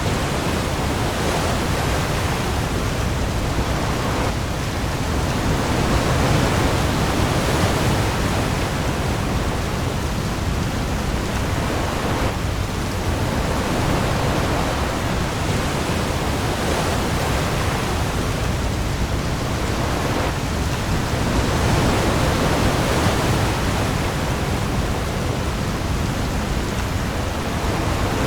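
Heavy rain falling steadily on the open sea, with waves swelling and easing every few seconds over a deep low rumble.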